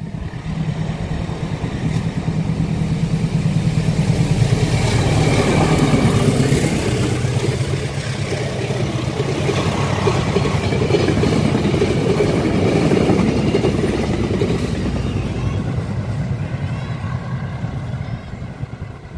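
Diesel-hauled passenger train passing close by. A low steady diesel engine drone builds first, then steel wheels rumble and clatter on the rails as the coaches go by, fading over the last few seconds as the train moves off.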